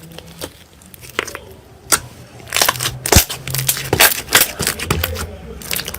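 Slime being squeezed and pressed by hand, giving a few scattered pops and then, from about halfway in, a dense run of crunchy crackling.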